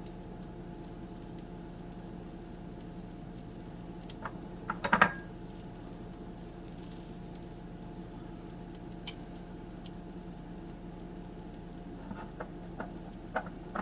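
Steady kitchen hum with a few light taps and clicks: a cluster about five seconds in and a few more near the end, as tomato is dropped onto an omelette cooking in a skillet.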